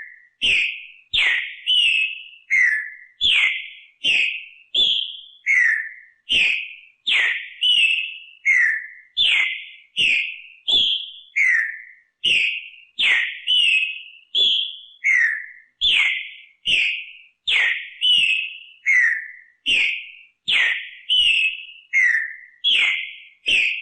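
A green-winged saltator (trinca-ferro) sings its short whistled song phrase over and over without a break, a few clear notes per phrase, with a new note coming nearly every second.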